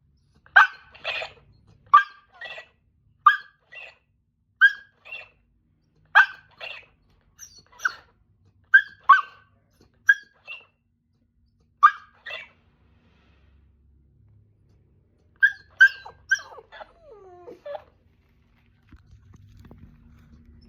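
Husky dog 'talking': short yips and barks, mostly in pairs, coming every second or so. After a pause, near the end, comes a burst of calls ending in a longer whine that slides down in pitch.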